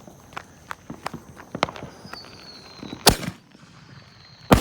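Fireworks going off: a scatter of small crackling pops, a faint falling whistle, then a loud bang about three seconds in and another near the end.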